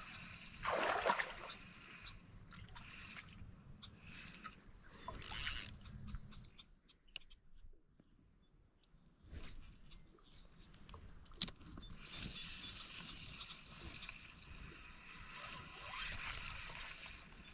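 Creek water sloshing and splashing as someone wades and feels about the creek bed, with a couple of louder splashes in the first few seconds and a single sharp click about eleven seconds in.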